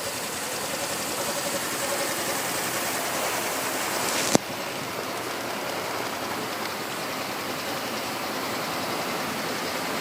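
Yamaha Axis Z 125 cc scooter's single-cylinder engine running steadily, with a sharp click about four seconds in, after which the sound is a little quieter.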